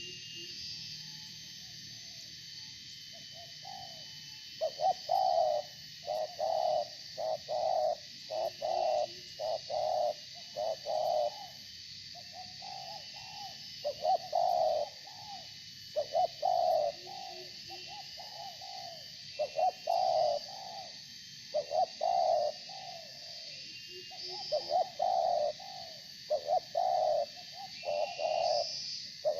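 Spotted doves cooing: phrase after phrase of low, hollow coos starting a few seconds in, with smaller birds chirping faintly and high in the background.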